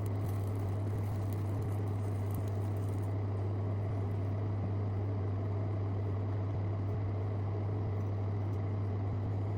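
Steady low electrical hum with a faint even hiss behind it, unchanging throughout.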